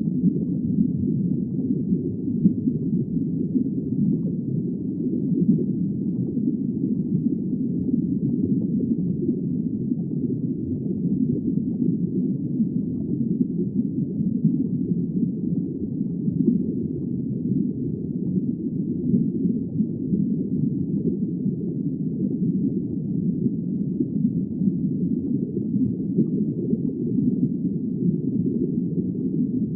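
Steady, muffled low rumble of underwater ambience, with no high sounds and no distinct calls or events.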